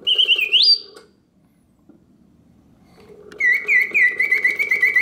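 Vintage German Karl Griesbaum mechanical singing bird cage singing: a short whistled phrase that glides upward, a gap of about two seconds on its pause setting, then a fast run of repeated chirping notes. A low steady hum runs under each phrase.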